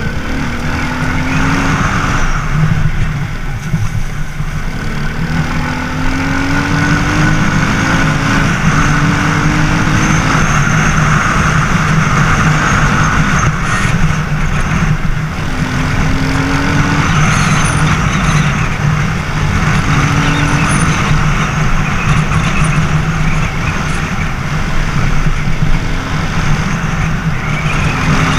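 Racer Panther 300 enduro motorcycle engine running while riding, its revs rising in short climbs several times as it pulls through the gears, with wind rushing past.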